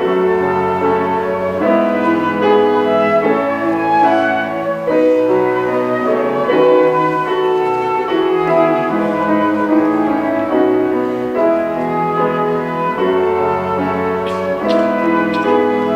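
Live contemporary chamber music for flute, cello and piano, with piano chords under sustained flute lines, the notes changing about once a second.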